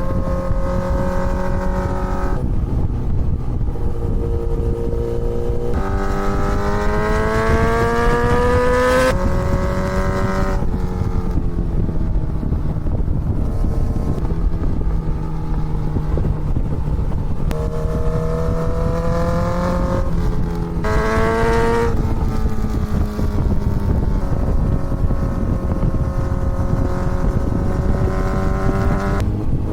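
Kawasaki Z900's inline-four engine heard from the moving bike, pulling up through the gears: its pitch climbs and then drops sharply at each upshift, several times, between steadier cruising stretches. A steady rush of wind noise runs underneath.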